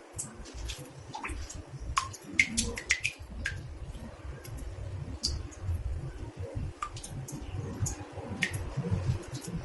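Water drops falling irregularly into a bathtub, several a second: sharp drips, many with a short pitched plink, over a low steady rumble.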